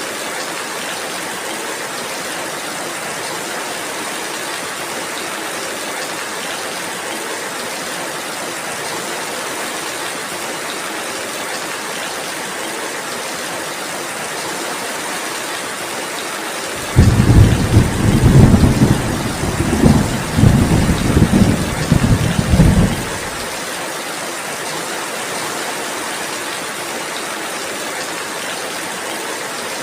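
Steady rain falling, with a loud low rumble of thunder that starts suddenly a little past halfway, pulses for about six seconds and then dies away.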